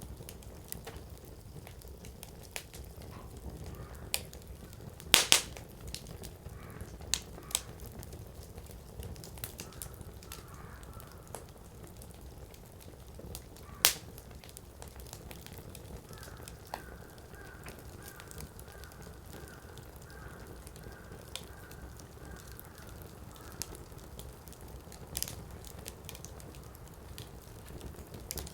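Wood fire burning in a Coleman Fire Disc, crackling with scattered sharp pops of the burning firewood, the loudest two close together about five seconds in and another about halfway through, over a steady low rush of the flames.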